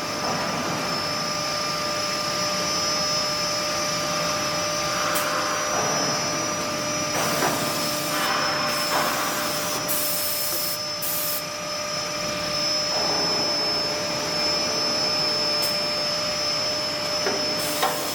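Six-sided CNC panel drilling machine running: a steady whine of its drill spindles over a noisy rush, with a few short bursts of high hiss midway through.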